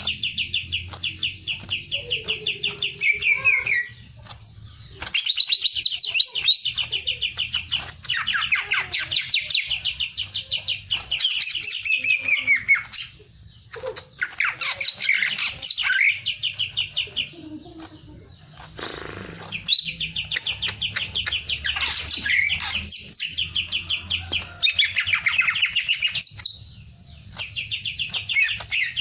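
A songbird singing in long, rapid trills of fast repeated notes, broken by short pauses, with a brief noisy burst about two-thirds of the way through.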